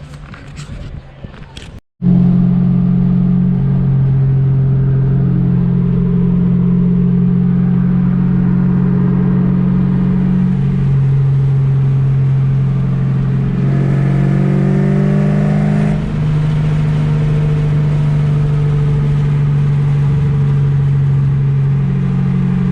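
2008 Mustang GT's 4.6 L three-valve V8 through a Pypes exhaust, a loud steady drone while cruising, starting about two seconds in. Near the middle the pitch rises for a couple of seconds as it accelerates, then settles back to the steady drone.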